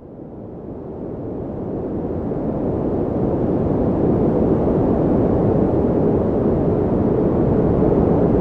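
Wind rushing as a steady, deep noise that fades in and swells over the first few seconds, then holds steady.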